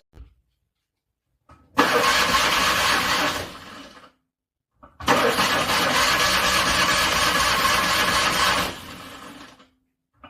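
Car engine being cranked by the starter in freezing cold without catching. There are two attempts with silence between them: a short one about two seconds in and a longer one from about five seconds in. Each starts abruptly and trails off quieter before cutting out.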